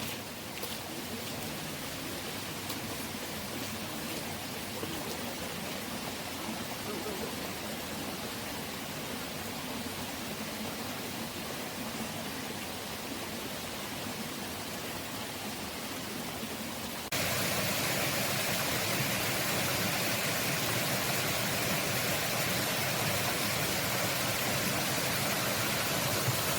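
Steady rush of a waterfall's falling water, with no distinct events. It jumps suddenly louder and fuller about two-thirds of the way through.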